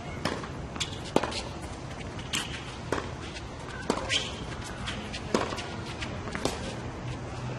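Tennis ball being hit during a point: sharp single pops of racket strikes and ball bounces on the hard court, about one every half second to a second, over a low murmur of the court.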